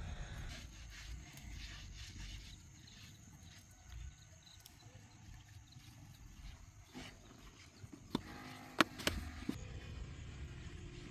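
A few sharp knocks about eight to nine seconds in, one of them loud, over a low rumble.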